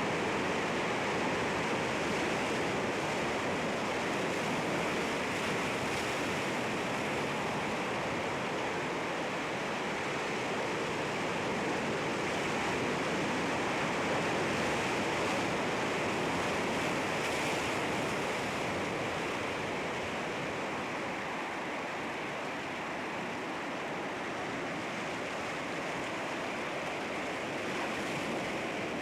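Sea waves breaking and washing against rocks, a continuous churning surf that swells and eases slightly in loudness.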